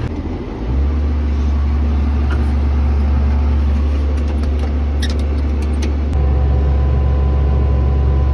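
A vehicle engine running steadily, a loud low drone that steps up about a second in and again a little after six seconds, with a few light clicks around five seconds.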